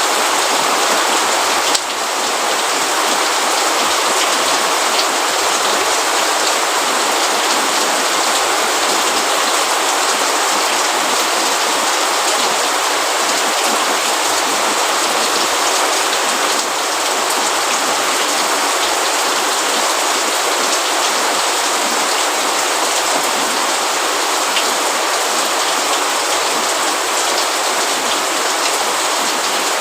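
Steady rainfall: an even hiss of many drops, with a slight dip in level about two seconds in and again midway.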